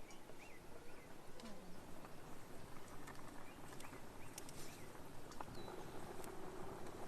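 Small birds chirping faintly now and then over a steady background hiss, with scattered sharp clicks.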